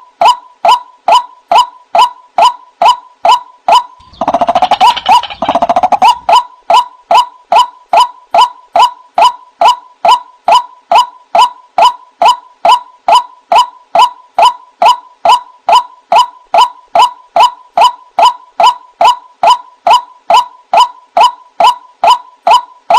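White-breasted waterhen (ruak-ruak) calling: short, loud, honking "kruak" notes repeated about two to three times a second, with a noisier stretch of overlapping calls a few seconds in. This is a recorded call played as a trapping lure.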